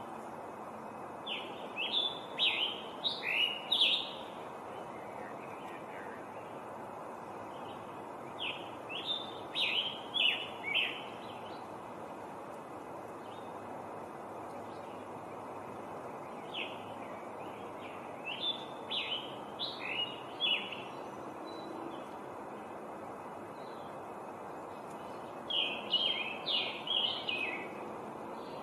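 Scarlet tanager singing: four bouts of quick short phrases, each a run of about five to eight notes, with pauses of several seconds between them, over a steady background hiss.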